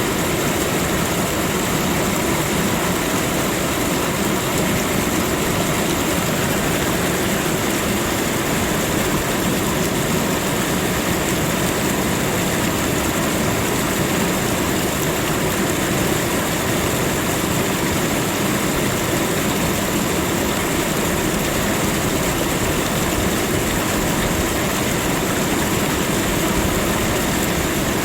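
Steady, unchanging rushing noise of a nature ambience track, with no separate events.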